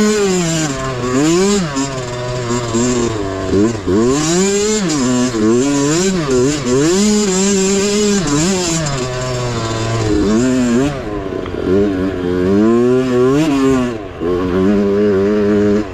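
Mini bike's small single-cylinder engine revving under load while ridden off-road, its pitch rising and falling every second or two as the throttle is opened and closed.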